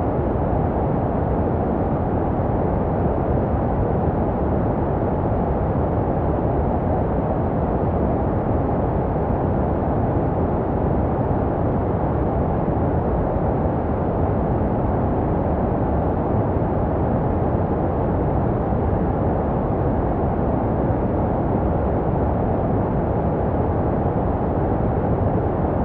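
Steady, unchanging baby-sleep white noise, deep and muffled, a low rushing hiss with little treble, shaped to resemble the sound heard inside the womb.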